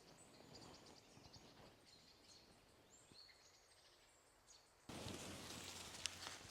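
Faint, high chirping of distant birds over a quiet forest background. About five seconds in, the sound jumps suddenly to a louder rustling noise with a low hum.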